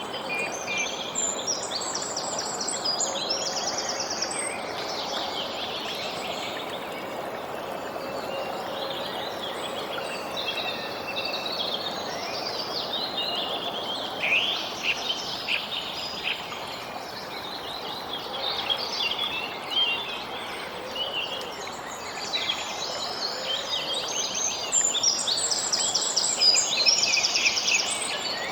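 Small birds chirping and trilling in quick runs, busiest near the start and loudest in the last few seconds, over a steady rushing background noise.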